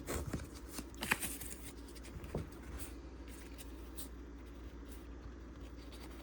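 Paper baseball cards being handled and flipped through by hand: soft scattered clicks and slides, a few sharper ones in the first couple of seconds, then fainter, over a steady low room hum.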